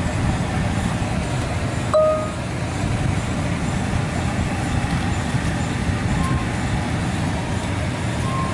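Old Water Wizard 1.0 touchless car wash machinery running with a steady low rumble. About two seconds in there is a sharp click and a short squeak, and faint brief squeaks come later; this is a little squeaky, typical of the worn older 1.0 machine.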